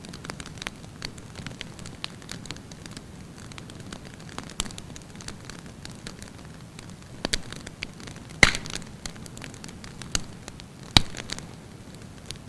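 Wood campfire burning with a steady soft rush and frequent crackles, the sharpest pops about two-thirds of the way through and again near the end.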